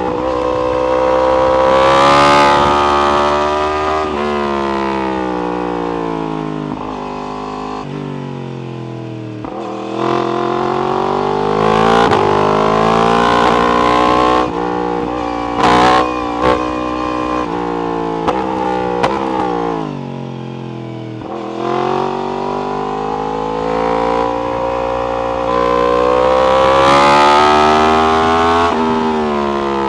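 Yamaha R1 inline-four through an Akrapovic exhaust, revving hard and easing off again and again as it is ridden: the pitch climbs through the revs, then falls, four or five times. There are a few short sharp blips about halfway through.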